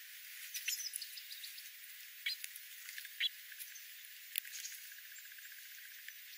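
Small birds giving scattered short, high-pitched chirps and clicks, with a fast, fine trill for about a second in the second half.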